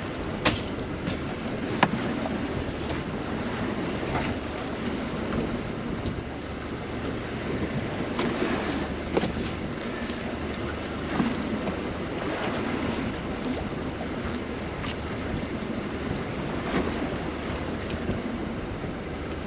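Steady wind and water noise around a small open boat at sea, with scattered sharp knocks and clicks all through.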